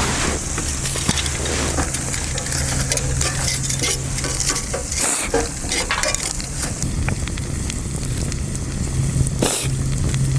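Food sizzling in a cooking pot as it is stirred, with scraping and clinking of a utensil against the pot and a steady low hum underneath.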